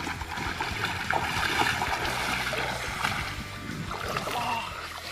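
Flowing stream water with scattered splashes, under background music with low sustained notes that change partway through.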